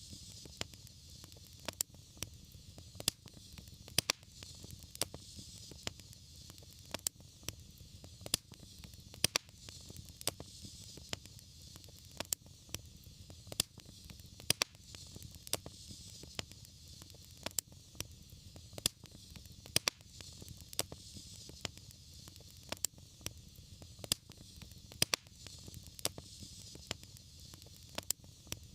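Wood fire crackling: sharp pops a few times a second over a steady low rumble and soft hiss.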